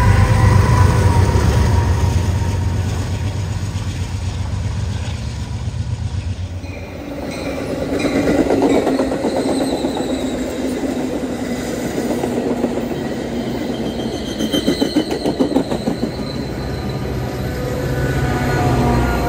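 A BNSF double-stack intermodal freight train's well cars rumbling past. About seven seconds in, the rumble gives way to Metra bilevel commuter coaches rolling by close, their wheels clattering rhythmically over the rail joints with a faint wheel squeal.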